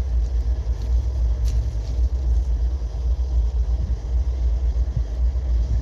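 Steady low rumble of a diesel locomotive's engine idling close by.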